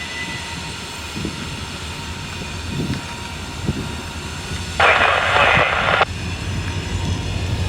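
Steady low rumble of an idling diesel locomotive, cut across about five seconds in by a loud burst of railroad radio static lasting just over a second that starts and stops abruptly.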